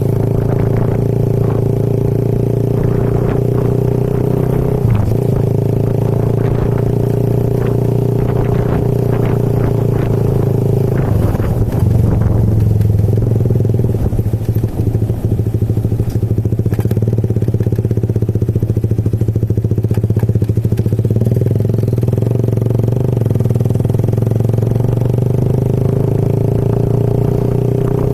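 Motorcycle engine running steadily at an even speed while riding, with scattered small clatters in the first half.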